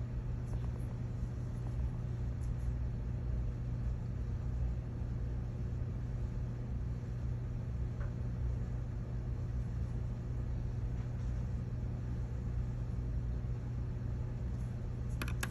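Steady low hum with faint room noise, unchanging throughout, with no distinct event.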